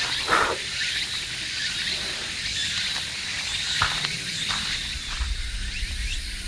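Outdoor nature ambience: steady high-pitched chirping of many small calls, with a few sharp clicks and a low rumble coming in near the end.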